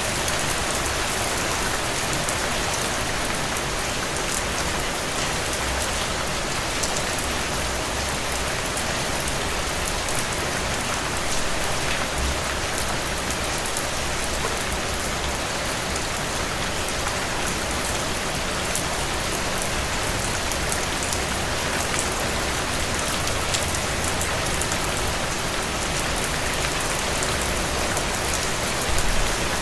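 Steady rain falling on a surface: an even, unbroken hiss with individual drops ticking through it.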